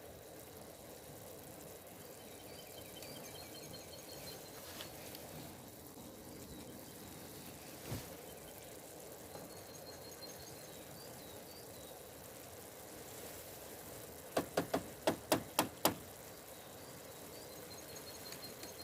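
Quiet outdoor ambience with faint, repeated short high chirps. About fourteen seconds in comes a quick run of about seven sharp knocks, a few per second.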